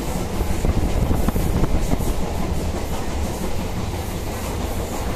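Kolkata suburban local train running, a steady deep rumble with rapid, irregular knocks of the wheels over the rail joints, a little louder in the first two seconds.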